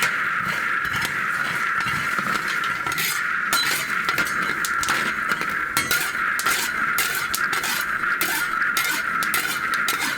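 Dishes and metal utensils clinking and knocking repeatedly, over a steady high-pitched drone.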